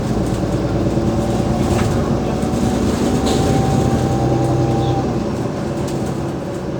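Cummins ISL diesel engine and ZF Ecolife automatic gearbox of an Alexander Dennis Enviro500 MMC double-decker bus running under way: a steady drone, with a thin whine held at one pitch for a couple of seconds in the middle. The drone eases slightly near the end.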